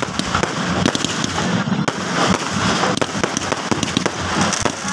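Fireworks display: a rapid, unbroken run of bangs and crackling from bursting aerial shells.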